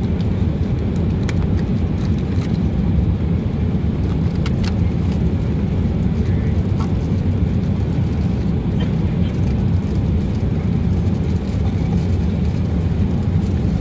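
Steady low rumble of airliner cabin noise, with a few light clicks.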